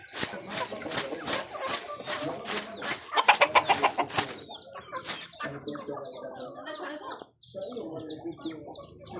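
Domestic chickens clucking, with a quick loud run of clucks a few seconds in; in the second half, a string of short high chirps of chicks peeping.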